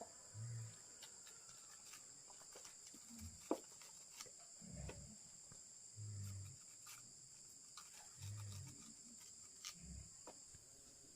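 Faint, steady chirring of insects, with short low sounds every second or two and scattered light clicks.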